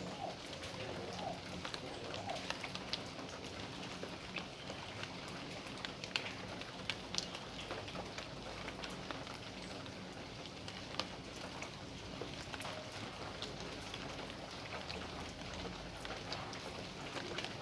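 Steady rain, with many separate drops ticking sharply on nearby surfaces over an even hiss.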